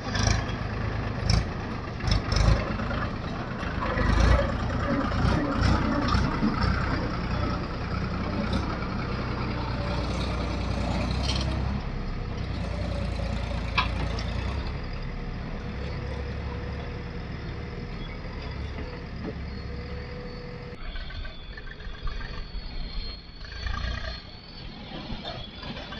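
Diesel engine of a backhoe loader running under load, with scattered sharp knocks and clanks, most of them in the first half.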